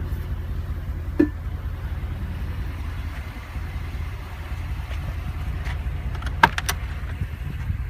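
Mercedes-Benz G550's V8 idling steadily as a low rumble, with a short click about a second in and a sharper click about six and a half seconds in.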